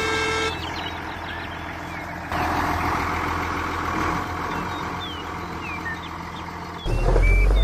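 A short vehicle horn toot at the start, then a vehicle engine running steadily with birds chirping. A louder, deep engine rumble starts near the end.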